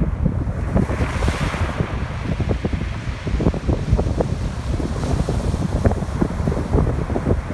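Strong wind buffeting the microphone, with ocean surf on a beach underneath. A wave's hissing wash swells about a second in and fades.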